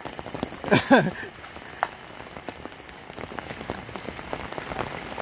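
Heavy rain pattering steadily on a wet paved road and roadside vegetation, with a dense patter of individual drops. A brief shout about a second in, and one sharp tick just under two seconds in.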